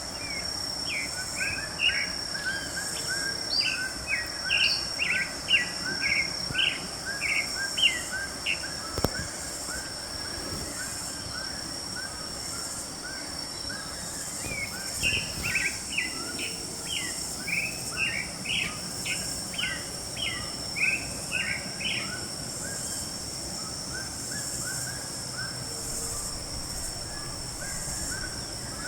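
Forest ambience: a bird calls long runs of short chirping notes, about two a second, over a steady high-pitched hum. There is a single click about nine seconds in.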